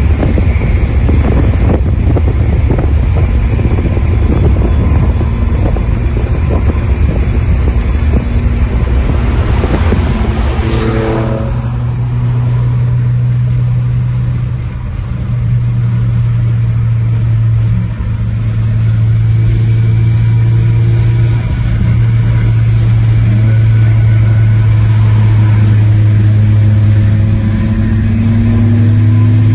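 Saab 9-3 Aero's turbocharged 2.8 V6 with the muffler deleted, under hard acceleration for about ten seconds. Then it eases off and settles into a steady low tone at constant speed.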